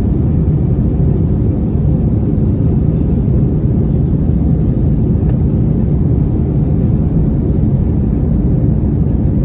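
Steady low rumble of cabin noise inside an Airbus A321 airliner, with engine and airflow noise heard from a window seat behind the wing.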